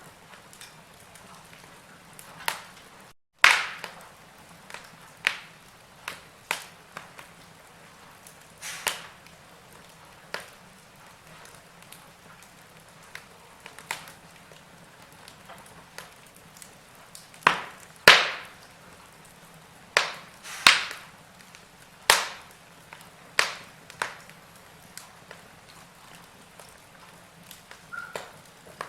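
Log fire crackling: irregular sharp pops and snaps over a soft hiss, the loudest pops bunched between about 17 and 21 seconds in. The sound cuts out completely for a moment about three seconds in.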